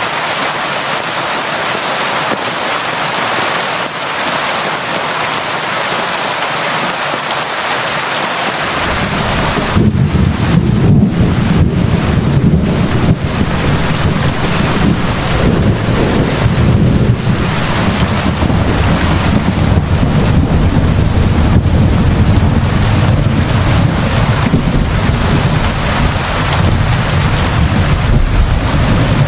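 Steady heavy rain hissing on a surface. About a third of the way in, a deep rumble of thunder comes in and rolls on to the end.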